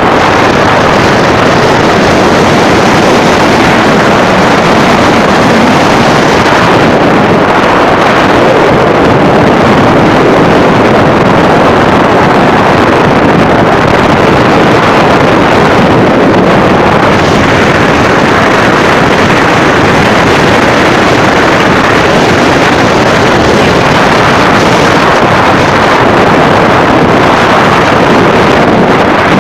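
A storm's wind and rain make a loud, steady rushing noise, with wind buffeting the microphone.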